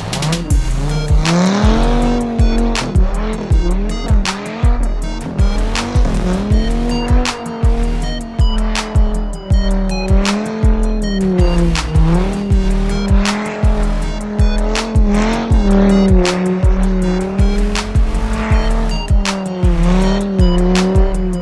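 Music with a steady thumping beat over a car engine whose pitch repeatedly sags and climbs back as it is revved, with tyre squeal.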